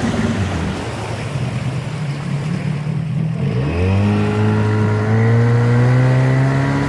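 Small 8-horsepower boat motor running at low, unsteady revs, then throttled up sharply about three and a half seconds in and held at a steady, higher pitch while pushing against a strong current.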